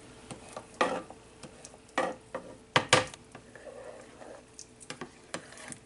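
A spoon stirring a cream sauce cooking down in a frying pan: a few sharp clacks of the utensil against the pan over a faint sizzle.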